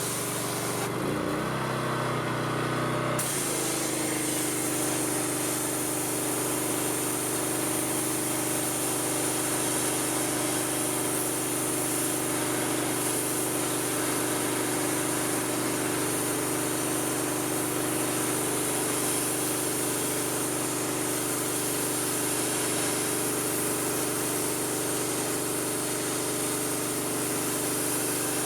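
Pressure washer running with its engine at a steady drone under the hiss of the water spray. About a second in the spray cuts out and the engine note wavers, then spraying resumes about three seconds in and runs on steadily.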